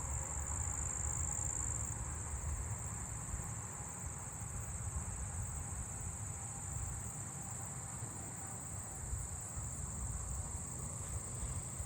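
Meadow katydids singing: a steady, high-pitched insect buzz, mostly agile meadow katydids drowning out fainter short-winged meadow katydids, over a low rumble.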